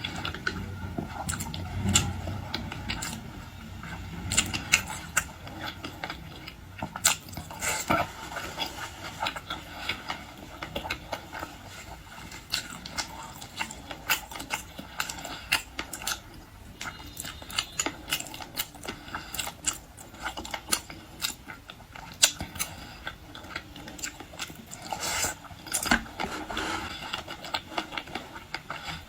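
A person eating close to the microphone: chewing and biting, with many short sharp clicks and crackles throughout.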